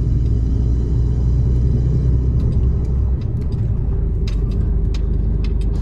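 Mercedes-Benz Actros truck engine running with a steady deep rumble, heard from the cab; the lowest drone changes about three seconds in. A few sharp clicks sound in the second half.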